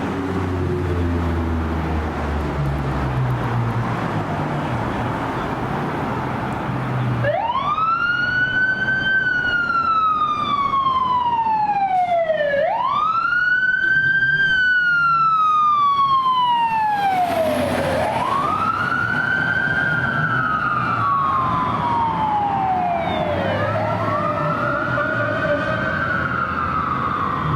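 Low vehicle engine rumble, then about seven seconds in a fire engine's siren starts a slow wail, rising and falling about every five seconds. Near the end a second, fainter wail overlaps it.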